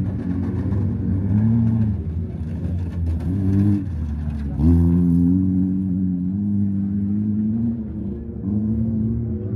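Wreck-race car engines revving hard on a dirt track, their pitch climbing and dropping again and again as drivers accelerate and lift off. A car passes close by about four and a half seconds in and is loudest then.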